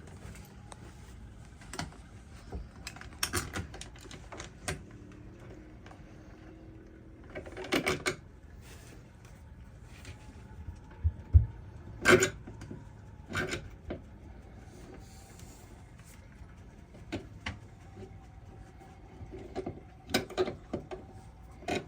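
Irregular clicks, taps and small clatters of hand work on light wiring, with short groups of sharp knocks every few seconds.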